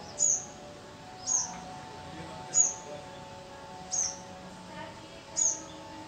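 A bird giving short, high, thin chirps, each a quick falling note, repeated at a steady pace about every second and a half, five times in all.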